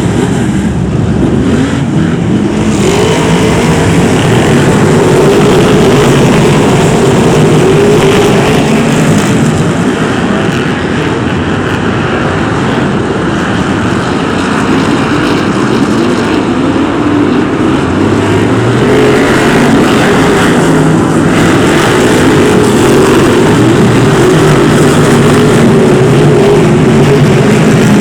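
A pack of BriSCA F1 stock cars' V8 engines racing, a loud, continuous mix of several engines at once. One engine rises in pitch about eighteen seconds in.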